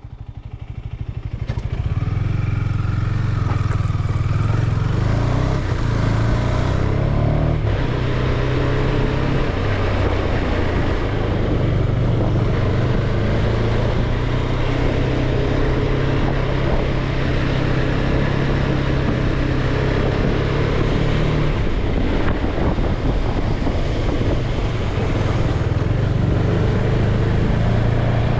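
Motorcycle engine running steadily while riding, its low note shifting slightly in pitch as the throttle changes, with a rush of noise over it.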